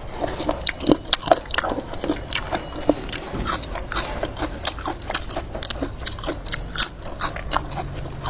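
A person chewing and biting into crunchy food close to the microphone, with short, irregular crunches several times a second.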